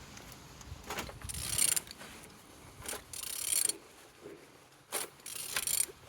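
Used engine, code 1A800, being turned over by hand at the crankshaft: three strokes of mechanical clicking and rasping, about two seconds apart. It turns freely, a sign the engine is not seized.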